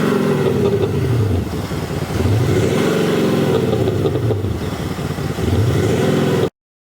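BMW X5 M50d six-cylinder diesel with an active sound booster shaping its exhaust note, revving: the note falls at first, rises and falls again in the middle, and climbs once more before cutting off suddenly near the end.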